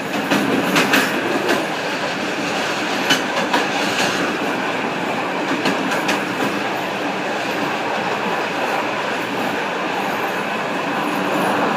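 Train wheels rolling on the rails, heard from inside the rear cab of the moving train. Sharp clicks in the first few seconds as the wheels cross the points, then a steady rolling noise on plain track.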